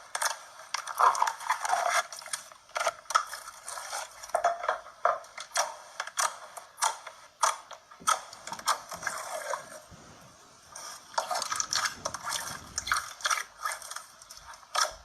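Slime being pressed and squeezed by hand: a dense, irregular run of sticky clicks, pops and squelches, easing off briefly about two-thirds of the way through.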